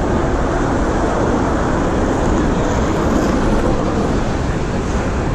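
Steady, loud rumble of vehicle traffic and wind noise, with no distinct events standing out.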